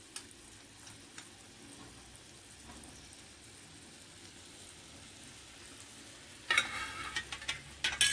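Clay tajine sizzling faintly and steadily over charcoal. About six and a half seconds in, and again near the end, there is a short burst of clatter and rustling.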